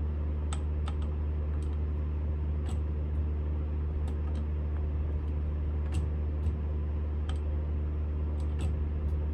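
Smithy CB-1220XL combination lathe running with a steady hum, with light, sharp clicks scattered irregularly over it.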